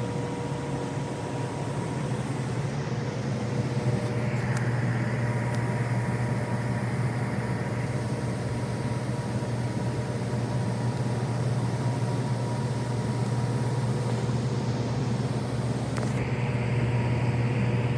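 Steady low mechanical hum of running HVAC equipment, with a faint whine held at a constant pitch.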